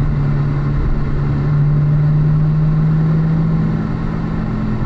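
Corvette Z06's V8 engine running steadily at about 2,500 rpm in third gear, heard from inside the cabin over tyre and wind noise. It swells a little louder around the middle, then eases back.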